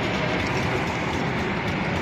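A vehicle running, giving a steady, unbroken noise.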